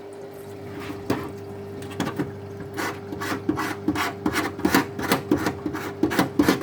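Knife blade scraping hardened tar-like build-up off the reed valve strip of a Paslode IM350+ nail gun, in short repeated strokes that come faster and louder over the second half. This build-up on the reed is the typical cause of the gun misfiring and firing without a nail.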